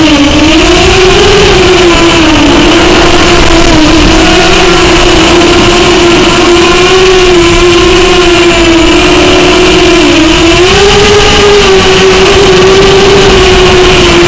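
Rebuilt Bolt250 250-size quadcopter's brushless motors and propellers buzzing in flight. The pitch dips and rises several times as the throttle changes.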